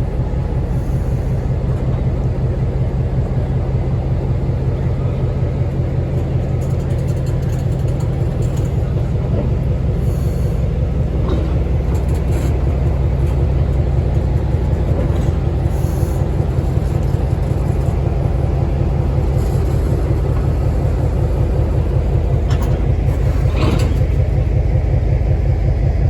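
Diesel locomotive engine running steadily with a deep rumble that grows a little louder over time, with a brief higher-pitched sound near the end.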